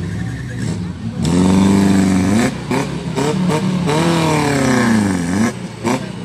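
A 4x4's engine revs hard through mud in two long surges, about a second in and again about four seconds in. Each time the pitch climbs and then falls away, with a few short knocks between the surges.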